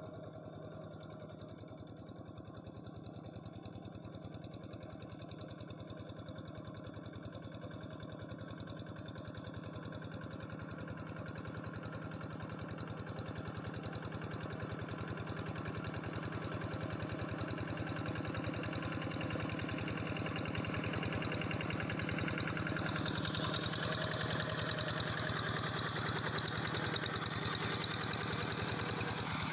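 Quick G3000 hand tractor's single-cylinder diesel engine running with a steady, rapid chugging beat, growing gradually louder and brighter throughout.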